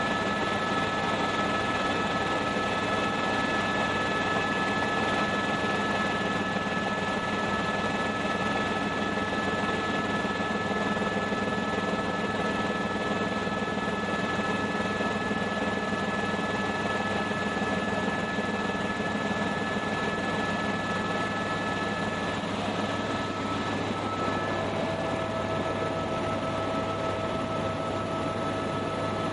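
Helicopter in flight: a steady rush of rotor and engine noise with a steady high whine, and a lower tone joining about three-quarters of the way through.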